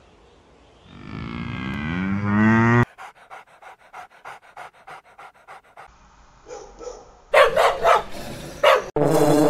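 A cow gives one moo that rises in pitch and grows louder. It is followed by a Jack Russell terrier panting, about four breaths a second, then a Doberman giving several loud, short vocal bursts. Near the end honeybees start a steady buzzing.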